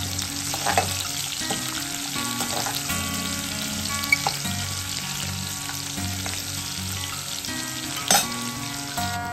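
Sliced onions, bay leaves and cumin seeds sizzling steadily as they fry in hot oil in a metal kadai. A slotted metal spatula stirs them, clinking and scraping against the pan a few times, the loudest strike near the end.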